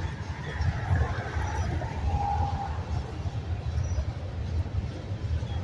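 Freight cars of a Union Pacific manifest train rolling past, a steady low rumble of steel wheels on the rails, with a brief squeal about two seconds in.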